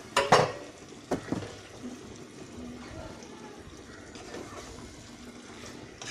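Raw chicken pieces going into a pot of hot fried onion and spice masala: a couple of loud wet plops and clatters in the first second and a half, then a steady low hiss of the pot cooking.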